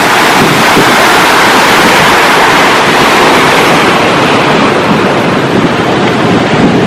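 Sea surf: breaking waves washing in a steady, loud rush, with wind buffeting the microphone.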